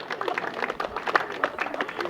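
Scattered hand clapping from a small group of people, uneven claps in quick succession.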